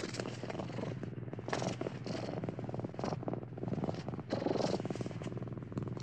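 Domestic cat purring steadily, rising and falling in loudness every second or so.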